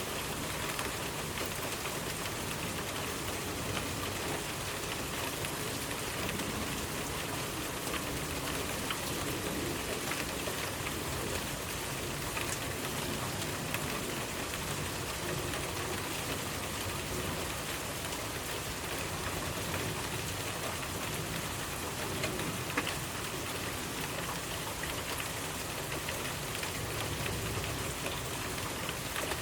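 Steady rainfall pattering on surfaces, an even hiss with scattered individual drop ticks.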